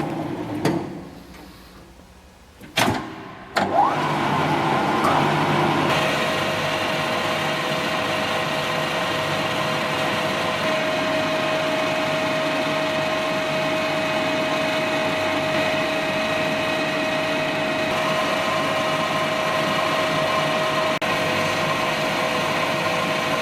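Mondiale Celtic 14 centre lathe winding down, then a few sharp clunks. The spindle then starts and runs up to speed with a rising whine, and runs on steadily with a gear whine.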